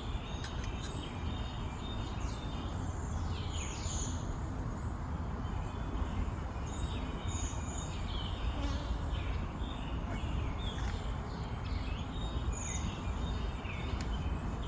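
Honeybees buzzing around an open hive, a steady low hum, with short falling bird chirps now and then.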